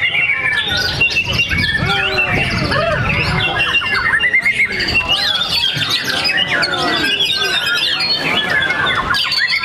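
Several caged white-rumped shamas singing at once in a bird-song contest: a dense, unbroken mix of overlapping whistles, trills and sharp chirps.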